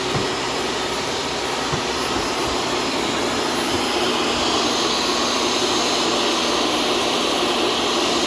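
Shark self-cleaning vacuum cleaner running, a steady whirring hum.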